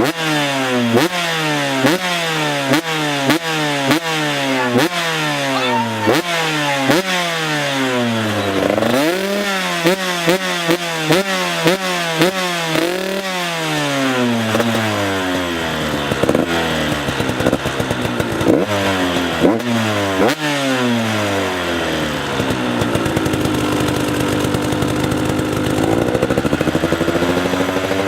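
2017 KTM 125 SX two-stroke single-cylinder engine breathing through an FMF Shorty silencer, revved hard over and over in quick throttle blips about one a second. In the middle the revs fall away more slowly, and near the end it holds a steady higher rev before dropping.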